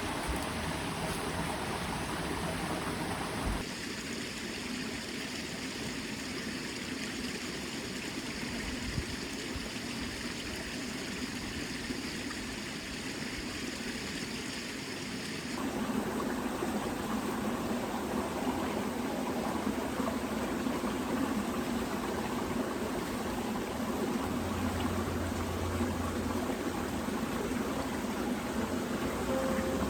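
Small mountain creek flowing steadily. The sound of the water changes abruptly twice, about four seconds in and again about sixteen seconds in, becoming fuller after the second change.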